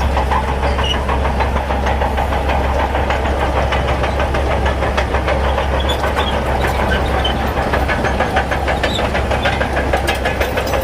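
Heavy diesel earthmoving machinery running steadily under load: a deep engine rumble with a fast, regular clatter.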